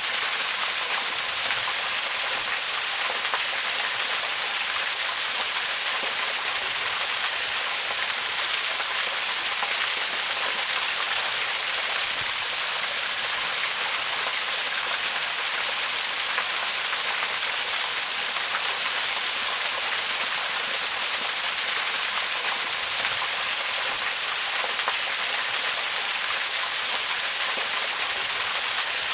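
Waterfall: a steady, unbroken rush of falling water, a dense hiss heavy in the high range with little low rumble.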